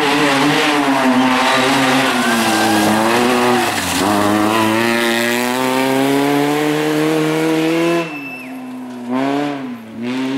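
Rally car engine at full throttle, its pitch climbing through the revs with a gear change about four seconds in. About eight seconds in it lifts off sharply, then the throttle is blipped once near the end, as on a downshift.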